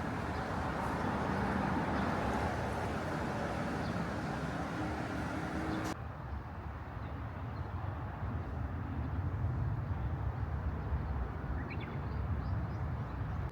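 Outdoor ambience: a steady rush of wind or engine noise with a faint low hum, cutting off suddenly about six seconds in to a quieter low rumble, with a few bird chirps near the end.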